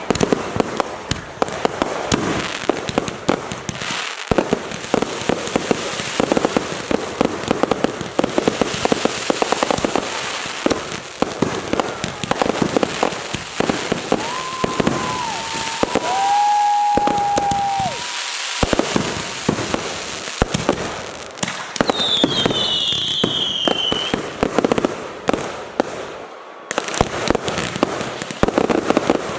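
Consumer fireworks going off in rapid, continuous crackling bangs and pops, with long steady whistles about halfway through and a falling whistle a few seconds later.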